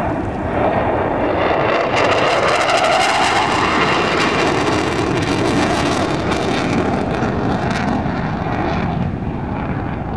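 Fixed-wing aircraft flying past at an airshow display: a loud engine rush that swells about two seconds in, its pitch shifting as it passes, and eases off near the end.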